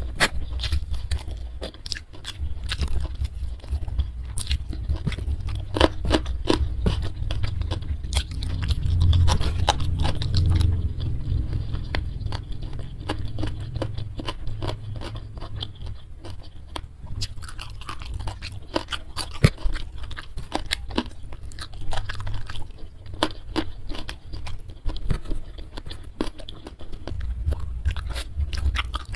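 Close-miked chewing of a mouthful of rice and steamed mackerel tuna, with many wet mouth clicks and smacks and some crunching.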